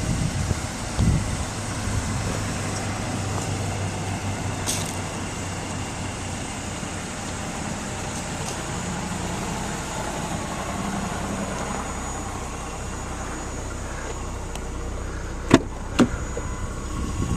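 A 2006 Ford Fusion's engine idling steadily. Near the end come two sharp clicks about half a second apart.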